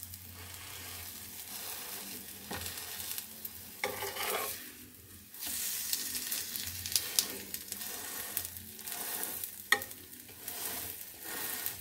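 Besan-battered bread frying in butter on a flat tawa, sizzling steadily, while a steel spatula scrapes and presses it against the pan at irregular moments. There is one sharp tap near the end.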